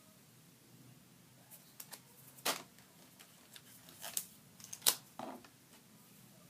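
Scattered sharp clicks and taps of small hard objects being handled, about a dozen in a few seconds, the loudest about two and a half seconds in and again near five seconds.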